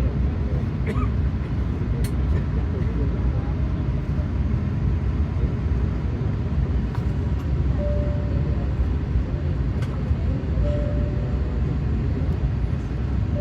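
Steady low rumble inside an Airbus A380's cabin on the ground before takeoff: its Rolls-Royce Trent 900 engines running at low power, with a few faint clicks and three short faint tones in the second half.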